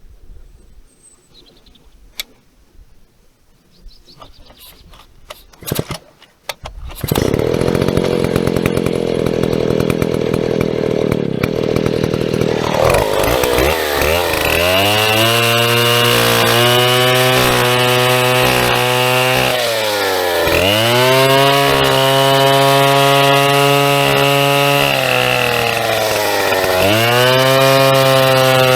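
Large vintage Stihl chainsaw starting up after a few quiet clicks, catching about seven seconds in and running at high revs. From about halfway it cuts birch, its engine note dropping under load and sharply dipping and recovering twice.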